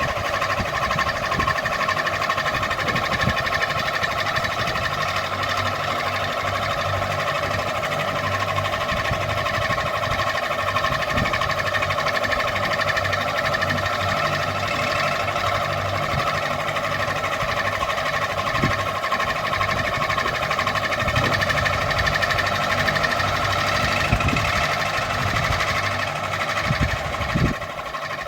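Ceiling fan running steadily: a continuous motor hum and whir, with occasional short clicks. It becomes a little quieter near the end.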